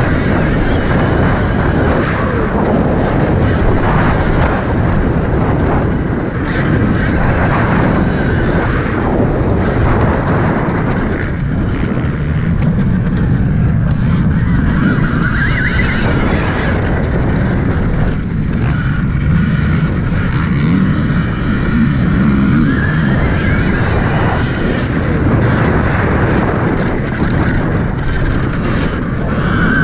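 Loud, continuous wind rumble and road noise from riding an Alta Redshift MXR electric dirt bike on a motocross track, picked up by a helmet-mounted camera; with no combustion engine, it is mostly wind buffeting and rough terrain noise.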